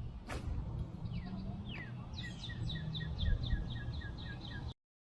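A songbird singing a fast run of evenly spaced chirps, about four or five a second, over a steady low rumble of wind and water on the microphone. A single sharp click comes near the start, and the sound cuts off suddenly near the end.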